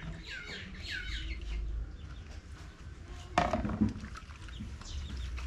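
Chickens calling, a quick run of short falling calls in the first second or so, with a sharp knock about three and a half seconds in.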